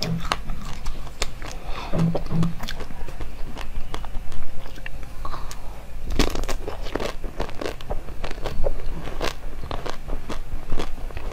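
Close-miked biting and crunchy chewing of a frozen, purple-coated sweet: a run of sharp crackles and crunches, thickest about six seconds in.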